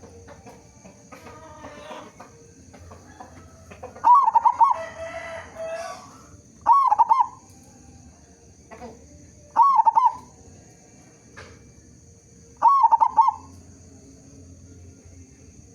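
Zebra dove cooing: four short, rapid trilled coos, about three seconds apart.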